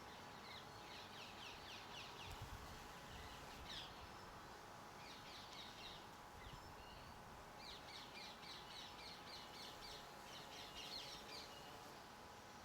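Garden birds calling faintly: three runs of quick, evenly repeated short high notes, the longest near the end, with a soft low thump a couple of seconds in.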